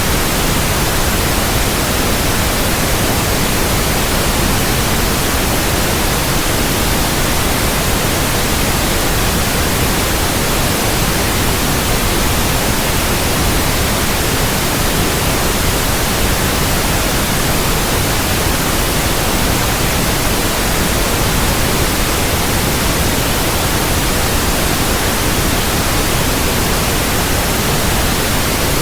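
Steady, loud white noise: an even hiss from low to high pitch with no changes, played as a sleep aid for infants.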